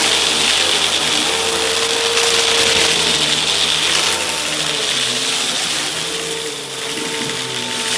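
Hoover vacuum cleaner running steadily, its motor whining at a constant pitch over the hiss of rushing air.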